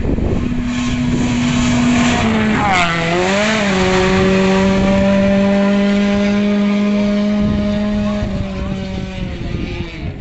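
Rally car engine running at steady high revs, with a short drop and wobble in pitch about two to three seconds in, then holding one steady note again and fading slightly near the end.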